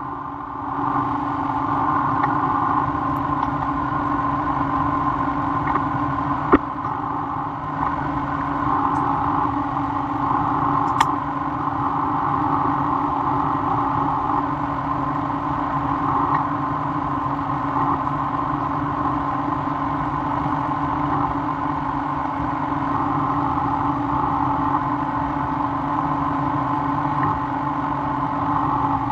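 Milling machine running steadily on a conventional-milling pass across an AR400 steel straightedge, with a sharp click about six and a half seconds in and another near eleven seconds.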